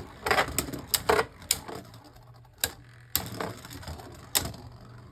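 Spinning Beyblade Burst tops colliding in a plastic stadium: a quick run of sharp clacks in the first second and a half, then single hits spaced more than a second apart.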